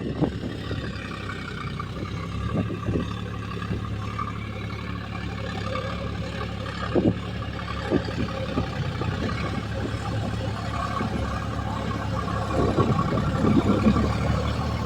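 Diesel engine of a tractor or backhoe running steadily under load, with a few scattered knocks and clatters; it grows somewhat louder near the end.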